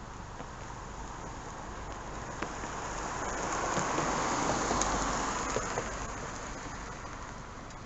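2020 Ford F-150's twin-turbo EcoBoost V6 truck passing by, rising to its loudest about halfway through and then fading away, mostly a smooth rushing sound of tyres and engine.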